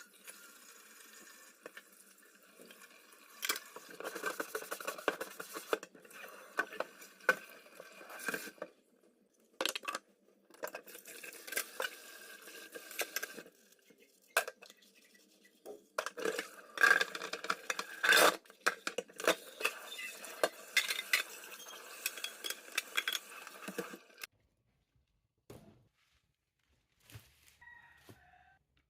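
Dishes and utensils being handled: repeated clinks and knocks over a rustling clatter, in several stretches that cut off abruptly, then near quiet for the last few seconds.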